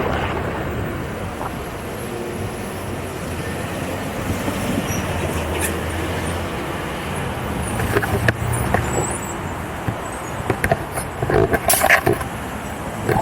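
Wind rushing over the microphone and road and traffic noise while riding an electric unicycle through city streets, with a few short knocks about two-thirds of the way through and near the end.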